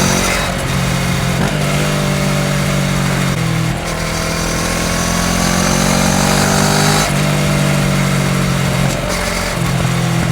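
Kawasaki Ninja 650 parallel-twin engine through a full Akrapovič exhaust, riding along with the engine note rising and falling as the throttle and revs change.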